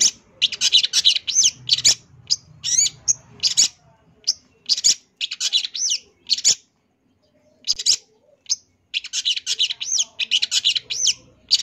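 Long-tailed shrike (cendet) singing a fast, varied song of chirps, sweeps and trills, a song full of mimicked phrases from other birds ('full isian'). The song comes in bursts, with short pauses about four and seven seconds in.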